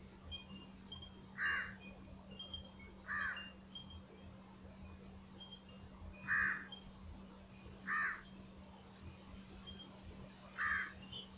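Five short bird calls, spaced about one and a half to three seconds apart, with faint high chirps of small birds between them and a steady low hum beneath.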